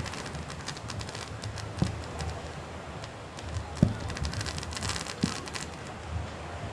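Fireworks going off: sharp booms roughly every two seconds, with a stretch of crackling in the middle, over a steady low rumble.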